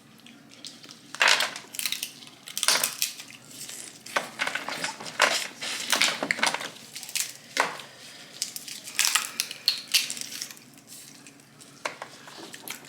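Snow crab leg shells being cracked and broken open, a string of sharp, irregular crunching cracks about once a second.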